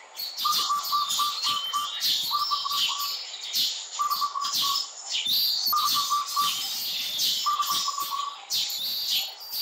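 Birds chirping and calling, with one call repeated as a quick run of five or six short notes about every two seconds.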